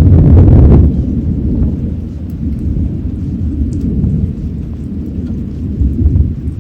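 Thunder rumbling in a rainstorm. The rumble is loudest in the first second and drops off sharply, then continues lower and uneven under the rain.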